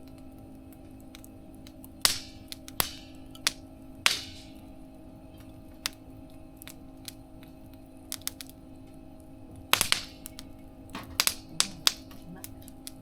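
Campfire crackling: irregular sharp pops, loudest in two clusters, a couple trailing off in a brief hiss, over a steady low hum.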